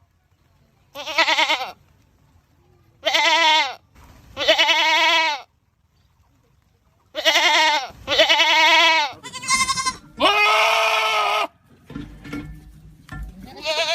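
Goats screaming: a series of about seven loud, wavering bleats, each half a second to a second long, with short pauses between them.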